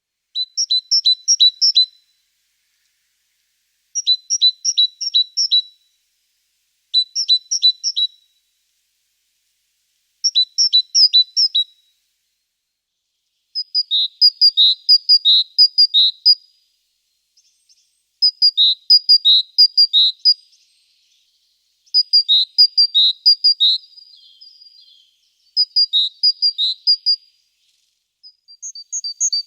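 A songbird singing short phrases of quick, high, repeated two-note calls, about nine phrases with brief silent pauses between them; the later phrases are longer, with slightly lower notes.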